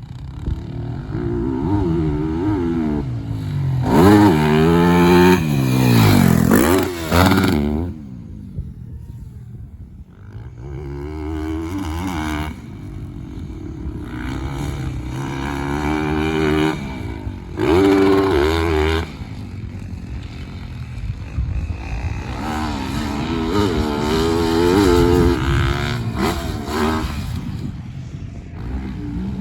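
Motocross dirt bike engine revving hard around a track, pitch climbing through each surge and falling away as the throttle is shut off, in repeated bursts of a few seconds.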